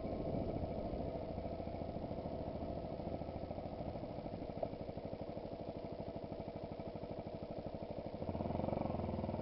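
Yamaha WR supermoto's single-cylinder four-stroke engine idling steadily after pulling up, with a slight swell near the end.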